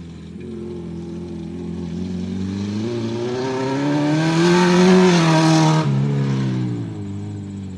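Acura RSX's four-cylinder engine accelerating, its note rising steadily for about four seconds with a rushing noise building near the top. Just before six seconds in the revs drop suddenly as the throttle is lifted or a gear is changed, and the engine runs on at lower revs.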